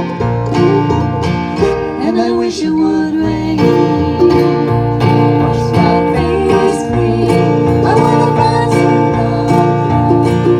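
Acoustic string band playing a bluegrass-style passage: plucked guitar and banjo over a steady, stepping bass line, with no words sung.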